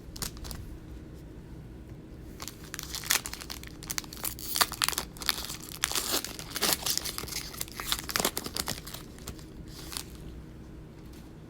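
A plastic trading-card pack wrapper being torn open and crinkled, with a run of crackling and rustling from about two and a half seconds in until about nine seconds in.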